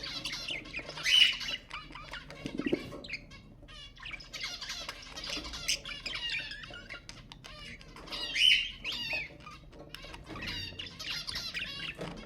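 Budgerigars chattering and warbling in a fast, continuous stream of chirps, with two louder squawks, one about a second in and one about eight and a half seconds in.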